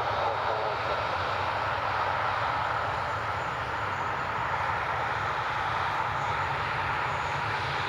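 Boeing 737-400 cargo jet's CFM56 turbofan engines running at takeoff power as a steady jet noise.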